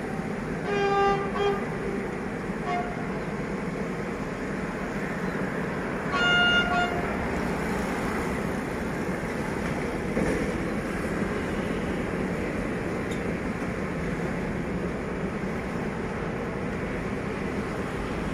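Diesel locomotive horn sounding a short blast about a second in and another, higher-pitched blast about six seconds in, over the steady rumble of a train running across a bridge.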